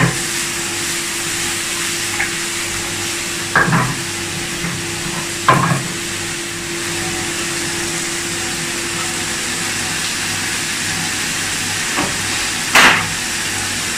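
Ribeye steak slices sizzling steadily on a hot grill, with a few short knocks of utensils against the grill or pan.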